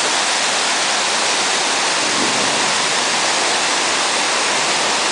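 Waterfall cascading over rock: a steady, loud rush of falling water.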